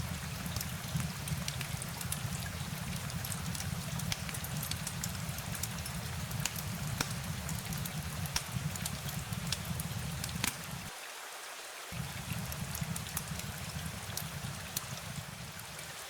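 Steady rain falling, with many separate drop hits over an even hiss and a low rumble underneath. The rumble cuts out for about a second roughly two-thirds of the way through.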